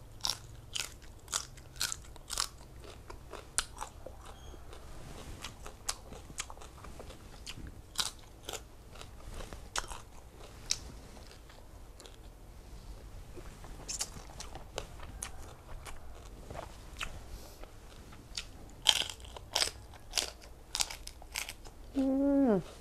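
Close-miked crunching and chewing of raw vegetables, with sharp crisp crunches coming at irregular intervals. Near the end, a short hummed 'mm' that falls in pitch.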